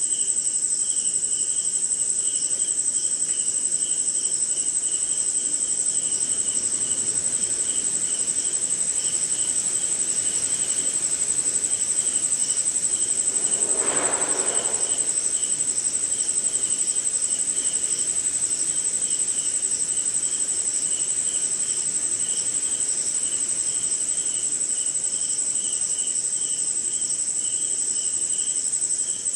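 Night chorus of crickets and other insects: one continuous high, steady trill over a quicker pulsing chirping. About halfway through, a brief lower sound stands out for about a second.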